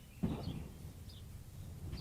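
Short, high, downward bird chirps repeating faintly every second or so, over a steady low outdoor rumble. About a quarter second in, a brief, close thump or rustle is the loudest sound.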